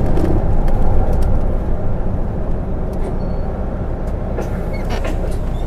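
Running noise inside a city bus, a PKG-LV234N2 Isuzu Erga: steady low engine and road noise with light rattles. It eases off over the first couple of seconds, then holds level.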